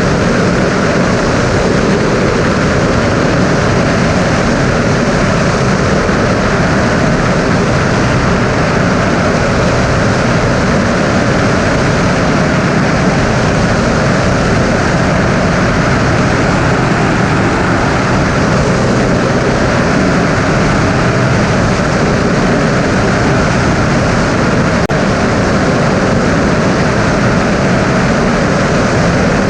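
Single-engine Cessna's piston engine and propeller running steadily in flight, a loud, unchanging drone.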